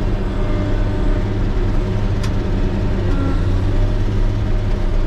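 Motor grader's diesel engine running steadily, with a brief sharp click a little over two seconds in.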